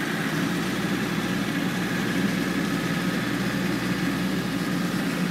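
Land Rover engine running steadily as the vehicle drives across a field, heard from inside the cab.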